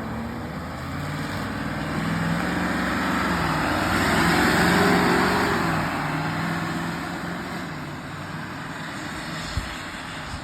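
Ford F-550 Super Duty truck running down the road after a full-throttle launch, engine hum under tyre and road noise that swells to a peak about halfway through and then eases off. A single sharp click near the end.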